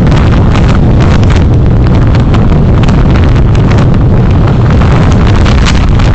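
Wind buffeting the microphone of a recorder on a moving vehicle: a loud, steady low rumble broken by rapid crackling gusts, with road and engine noise underneath.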